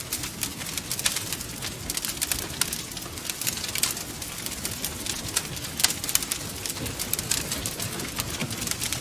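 Wood fire crackling, with a steady stream of small sharp pops and snaps over a low rumble of burning logs, and one louder pop about six seconds in.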